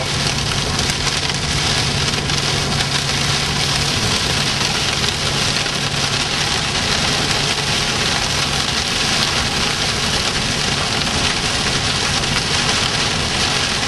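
Small hail and rain hitting a moving car's windshield and roof, a dense, steady patter of tiny impacts heard from inside the cabin, over the car's steady low hum.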